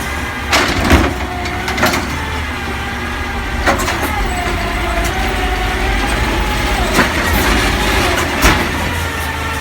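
Garbage truck running, its engine a steady low rumble under a wavering whine that rises about a third of the way in and eases off near seven seconds. Several sharp bangs and clanks punctuate it.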